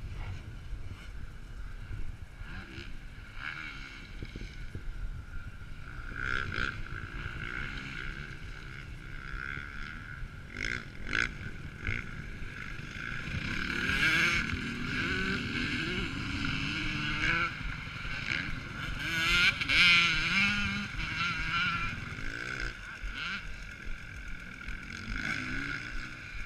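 Motocross motorcycle engines running, rising and falling in pitch as the bikes rev through the track, loudest about halfway through and again a few seconds later.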